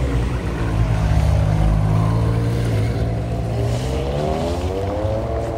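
Sports car engine rumbling at low revs, then revving up over the last two seconds, its pitch climbing steadily before it cuts off suddenly.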